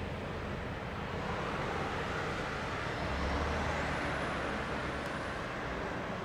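Road traffic passing, swelling in the middle as a vehicle goes by, with a thin high whine that rises about three seconds in and holds for a couple of seconds.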